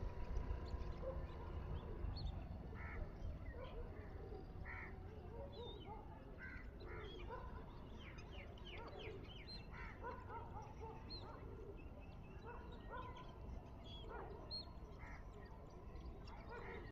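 A flock of wild birds calling, many short overlapping calls in quick succession, over a low steady rumble.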